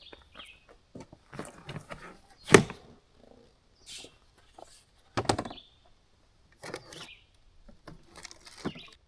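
Irregular knocks, clicks and rustling from camping gear being handled, with a loud knock about two and a half seconds in and a cluster of knocks a little after five seconds.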